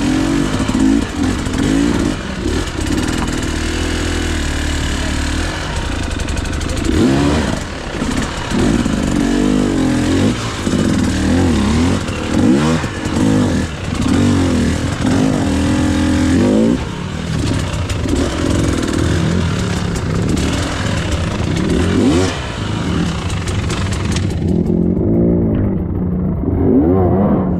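KTM EXC 300 two-stroke dirt bike engine revving up and dropping back over and over under hard riding, with a haze of noise over it. The sound turns muffled near the end.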